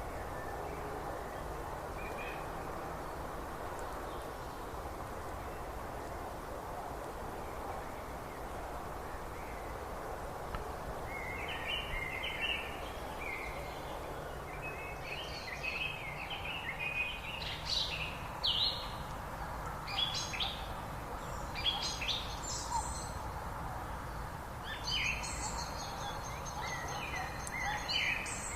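Songbirds chirping and trilling over a steady background rush. The calls begin about a third of the way in and grow busier toward the end, with a longer high trill near the end.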